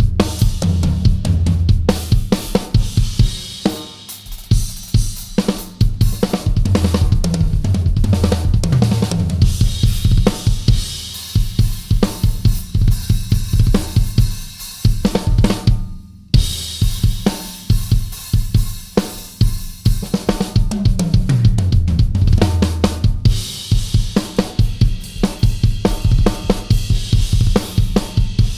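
Yamaha Absolute Hybrid Maple drum kit played in a continuous groove of kick drum, snare, hi-hat and cymbals, with fills that run down the toms from high to low. There is a brief break about 16 seconds in.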